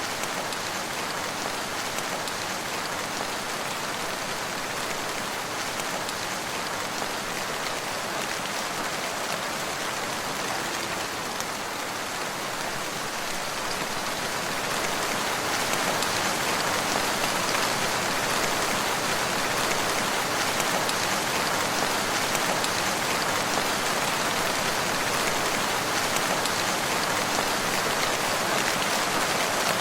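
Steady rain falling, a dense even hiss of drops with no thunder, growing a little louder about halfway through.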